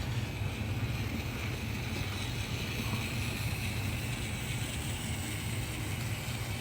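Two DCC-controlled model steam locomotives running in reverse at speed: a steady hum from their motors and gearing, with the wheels rolling on the track.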